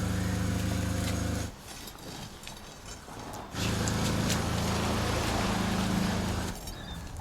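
A motor running with a steady low hum, in two stretches: it stops about a second and a half in and starts again about two seconds later, then cuts off shortly before the end.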